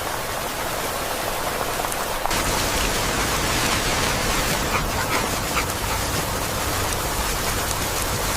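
Steady heavy rain falling, an even hiss that turns brighter and a little louder abruptly about two seconds in.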